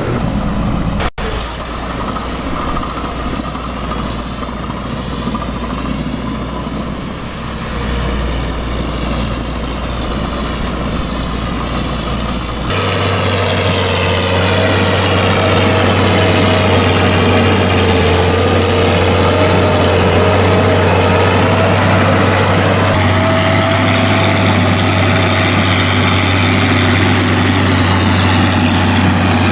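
Tractor engine running steadily, in two different clips joined together: the first has a thin high whine over the engine, and the second, after an abrupt change about a third of the way in, has a lower, fuller engine drone.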